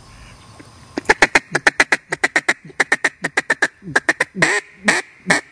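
A loud, quick run of mallard quacks, about six a second, ending in a few longer, drawn-out quacks.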